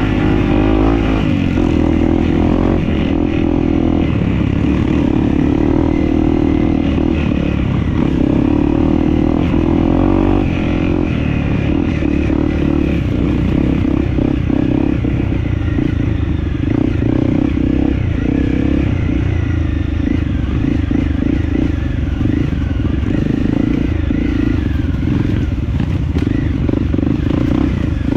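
Dirt bike engine running under way on a rough trail, its pitch shifting up and down with the throttle, with rattling and clatter from the ride.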